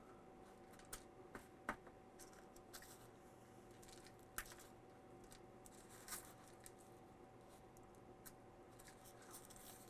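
Faint scattered crackles and taps of dry crushed-cracker and flour breading being pressed onto a cube steak by hand, over a faint steady hum.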